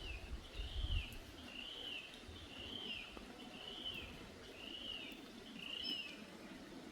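A bird calling the same short note over and over, about once a second, each note rising and then falling in pitch, with a low rumble during the first second.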